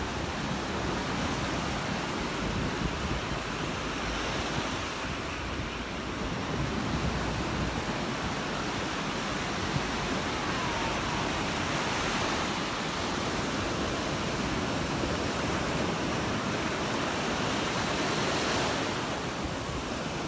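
Surf washing onto the beach, swelling every several seconds, with wind buffeting the microphone in a low rumble.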